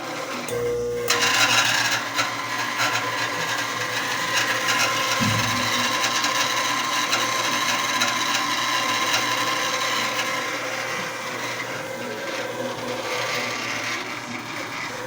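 Old Brastemp washing machine running with a steady rubbing, grinding mechanical noise, after a short hum about half a second in. The machine neither agitates nor spins, and a new magneto has not cured the fault.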